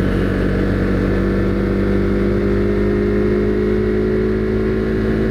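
Husqvarna Svartpilen 401's single-cylinder engine running at a steady cruising speed, holding one pitch, with wind rush underneath.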